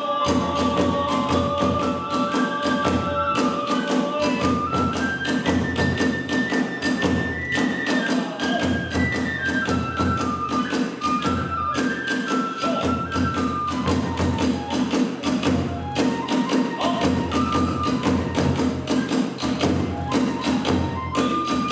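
Kagura hayashi: a bamboo transverse flute playing a stepping melody over a dense, driving beat of a large taiko drum and small hand cymbals.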